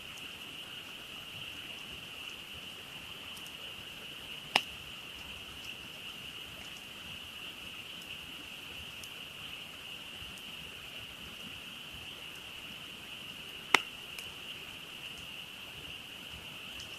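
Frogs in a steady massed chorus, joined by two sharp pops from a burning wood campfire, one a few seconds in and one near the end.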